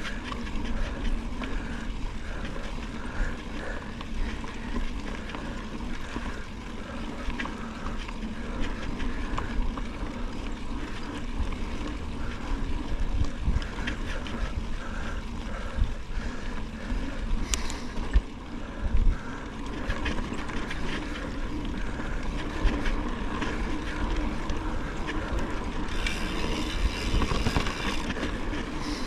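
Ride on a forest trail: steady rumble of tyres and wind on the microphone, with scattered clicks and a faint repeating tick about twice a second. A few sharp knocks come about 18 seconds in, and a brighter hiss joins near the end.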